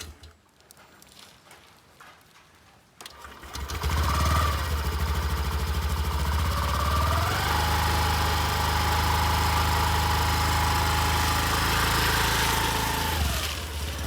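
Honda Activa 6G scooter's 110 cc single-cylinder engine: it stops at the start, then after about three seconds of near quiet it starts up again. It is blipped once, then revved up with a rising whine and held at higher revs for several seconds, before dropping back to idle near the end.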